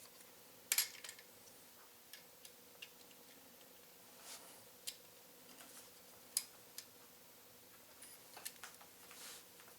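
Faint, scattered clicks and taps of small metal parts being handled and twisted while fitting a motorcycle rear brake pedal assembly.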